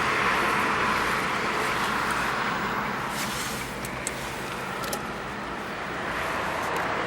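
A 2013 Chery Tiggo idling, heard as a steady hiss with a faint low hum, with two faint clicks about four and five seconds in.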